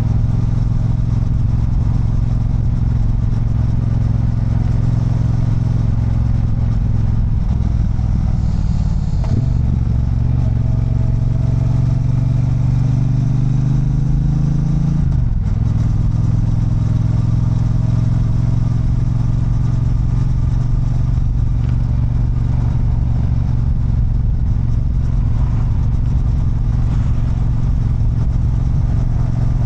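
Triumph Bonneville Bobber's 1200 cc parallel-twin engine running on the move, heard from the rider's position. Its pitch climbs steadily for about five seconds from a third of the way in, then falls sharply about halfway, and the engine runs at an even pitch for the rest.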